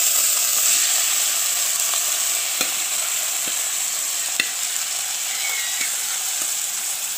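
Hot oil sizzling in a clay pot as a raw mix of anchovies, ground coconut and shallots is tipped in from a steel bowl and stirred. The hiss is steady and eases off slowly as the food goes in, with a few sharp clicks.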